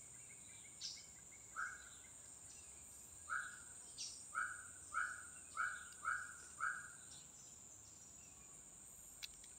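A bird giving a short call seven times, the last five in a quick run about two a second, over a steady high-pitched insect drone from the forest. A single faint click near the end.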